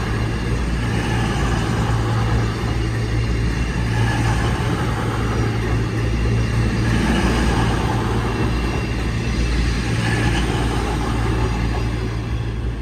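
Avanti West Coast Class 221 Super Voyager diesel train passing slowly over a level crossing, its underfloor diesel engines droning steadily with a constant low hum, fading slightly near the end.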